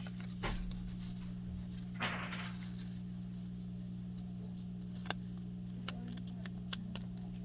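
Small handling sounds of a paper craft being pressed and glued together: a few soft clicks and a brief rustle about two seconds in, over a steady low electrical hum.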